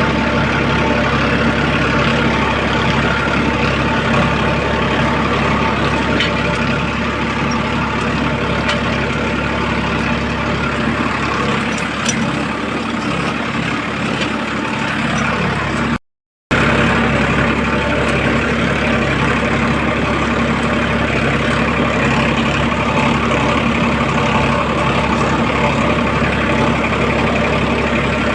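Farmtrac tractor's diesel engine running steadily under load while ploughing a field. The sound cuts out for an instant about halfway through, then carries on unchanged.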